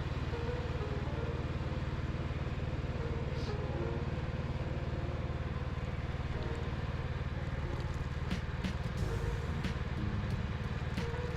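Tractor engine running steadily at an even speed, with a few short clicks or knocks in the last few seconds.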